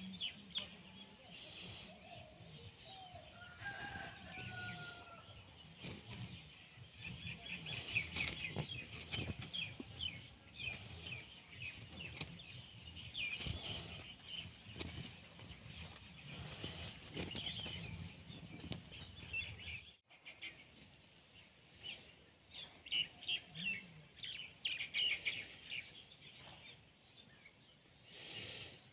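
Outdoor ambience of small birds chirping in quick, busy runs of notes, with a low rumble underneath that drops out suddenly about two-thirds of the way through.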